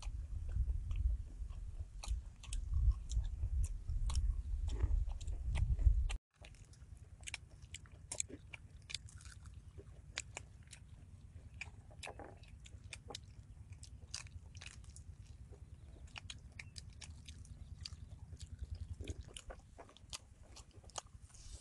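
Close-up crunching and chewing as people bite into crispy egg-battered fried shrimp, a steady run of short crisp crackles. A heavy low rumble sits under the first six seconds and cuts off abruptly, after which the crunching carries on more quietly.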